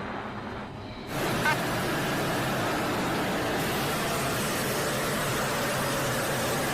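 Steady loud rushing noise of a jet aircraft in flight, cutting in suddenly about a second in.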